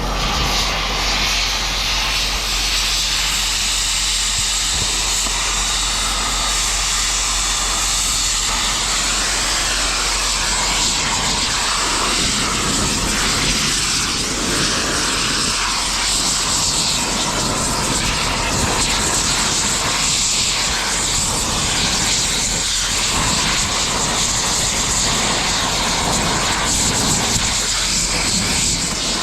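Loud, steady machinery running noise, an even rushing din with a low hum underneath that holds level throughout.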